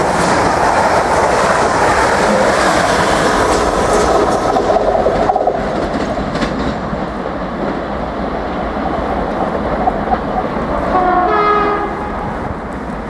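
A South West Trains Class 444 electric multiple unit passes close at speed, its wheels and rushing air loud at first and then fading away. About eleven seconds in, a train horn sounds briefly as another Desiro unit approaches.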